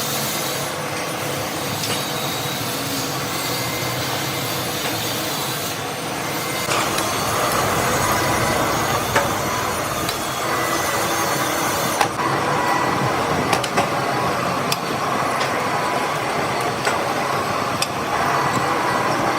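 Workshop machinery running steadily, with scattered sharp clicks. The noise grows louder about seven seconds in.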